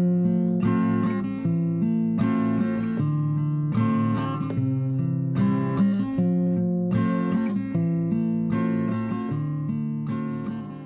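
Outro background music: strummed acoustic guitar chords in a steady rhythm, fading out near the end.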